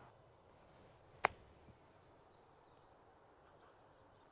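A golf club strikes the ball once on a pitch shot from wet grass, a single sharp click about a second in.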